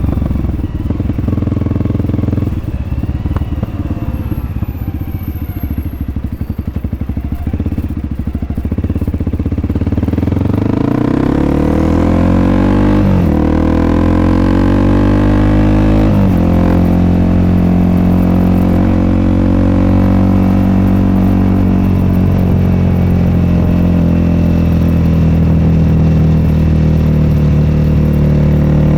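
Honda CRF300L's single-cylinder engine through an aftermarket FMF Q4-style exhaust, running low and steady at first. About ten seconds in it revs up through the gears, with two upshifts a few seconds apart, then settles into a steady cruise.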